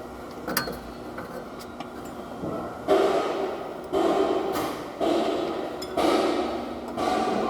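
A single sharp click, then five sudden knocks about a second apart, each trailing off over most of a second.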